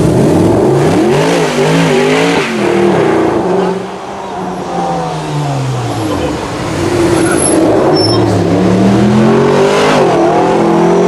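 Mercedes-AMG car engine revving, its pitch rising and falling in quick blips over the first couple of seconds. The revs then sink to a lower point around four seconds in, climb steadily again, and blip up and down near the end.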